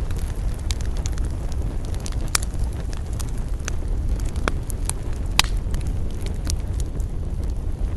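Wood campfire crackling, with sharp pops at irregular intervals, two of them louder, over a steady low rumble.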